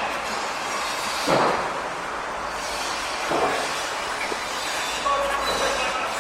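Continuous construction-site and city din, with two louder swells of noise in the middle and faint high tones near the end.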